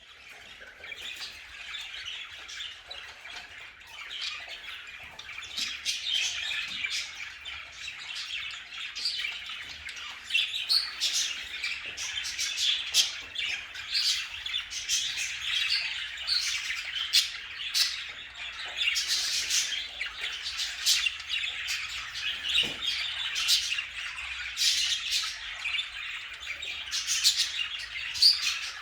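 A flock of budgerigars chattering and warbling, with many short sharp chirps and squawks over a continuous busy twitter.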